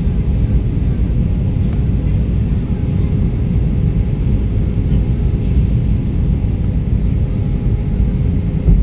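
Steady rumble of an Airbus A320-214 airliner in flight on approach, the engines' hum carrying a few steady tones above it. A brief low thump near the end.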